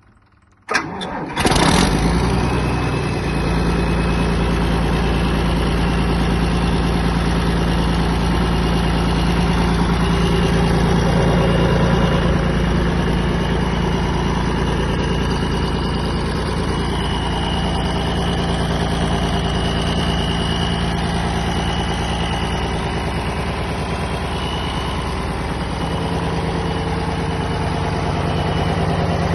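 Scania diesel engine of a 275 kVA generator set starting up about a second in, then running steadily at constant speed.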